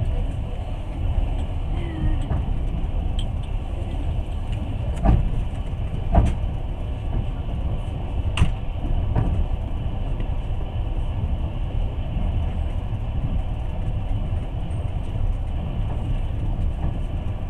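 Steady low rumble of a moving passenger train heard from inside the carriage, with a few sharp knocks near the middle.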